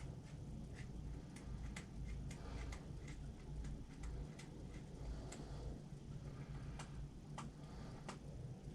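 Blue painter's tape being handled and peeled from the roll: scattered light clicks and ticks, one or two a second, over a steady low rumble.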